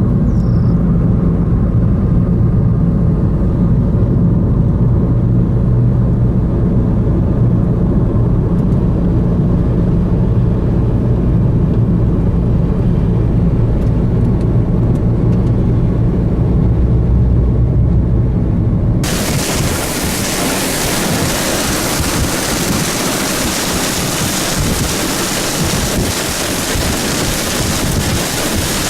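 Low, steady drone of a vehicle. About two-thirds of the way in it gives way abruptly to a loud rushing noise of gusty wind blowing on the microphone.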